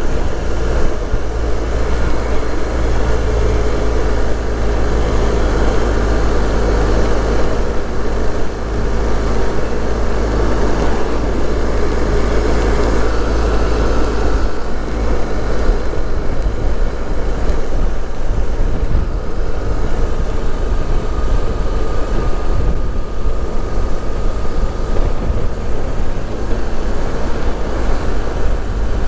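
Motorcycle riding at road speed: the engine runs steadily under heavy wind rush buffeting a helmet-mounted camera's microphone.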